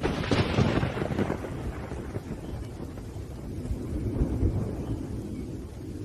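Thunder over steady rain: a sharp crack right at the start that rolls off over about two seconds, then a second low rumble about four seconds in.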